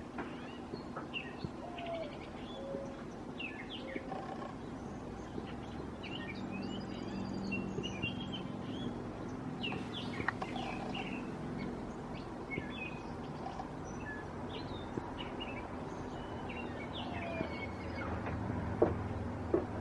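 Several small birds chirping and calling in short, scattered notes over a faint steady low hum, with two sharp taps near the end.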